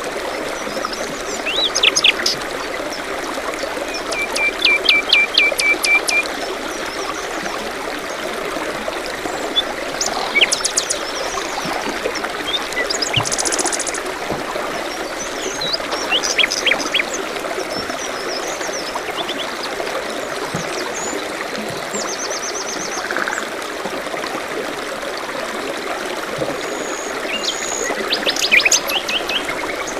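Small stream trickling steadily, with several songbirds calling over it in short chirps and trills: a quick run of even notes about five seconds in, a high fast trill near the middle, and more chirps near the end.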